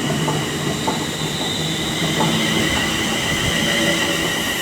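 Train on the line through the station: a low rumble with steady high ringing tones from the rails and wheels, and a few faint clicks.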